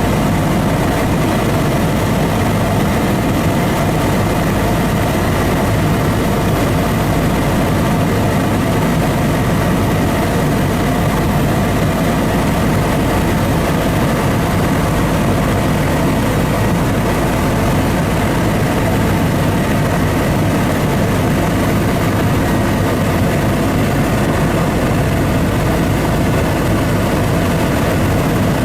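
Aircraft engine running steadily, heard from on board during a sightseeing flight, a loud unchanging drone with steady tones in it.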